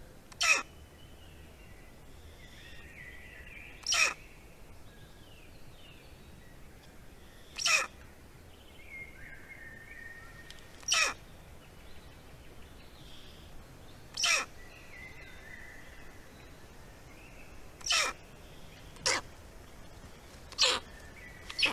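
A bird's short harsh call, repeated about every three to four seconds and coming quicker near the end, with faint songbirds singing in the background.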